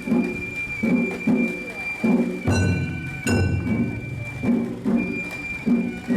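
Japanese festival float music (matsuri-bayashi): taiko drums beating about twice a second under a bamboo flute holding a high note, with a few ringing metal strikes.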